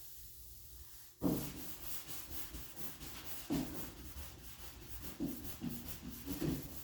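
Hand sanding high-build primer with 400-grit paper on a sanding block: repeated scratchy back-and-forth strokes that start about a second in.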